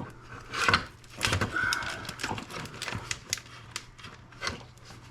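Irregular clicking and clattering of small plastic and metal scrap parts being handled and pried apart by hand, with a short scrape about a second and a half in.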